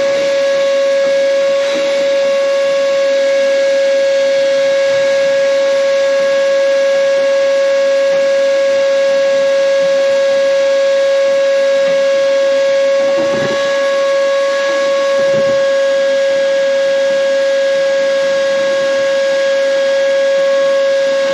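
Electric motor running at a steady, high, unwavering whine, with brief small dips in level about two-thirds of the way through.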